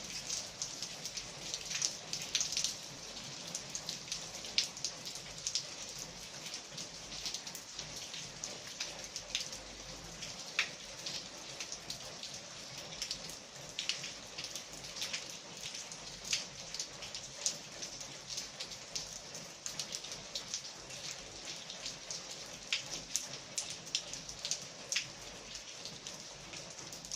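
Steady, continuous rain falling, with many individual drops striking close by as sharp taps over the even hiss.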